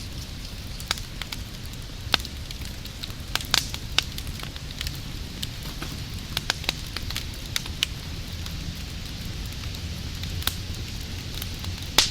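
Wood fire crackling: irregular sharp pops and snaps over a steady low rumble and hiss, with a loud pop near the end.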